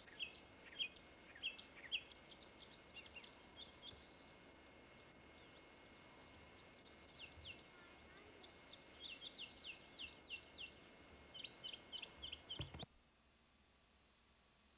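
Small birds chirping outdoors: quick runs of short high chirps in the first few seconds and again from about seven seconds in, stopping abruptly near the end, where the recording cuts to faint hiss.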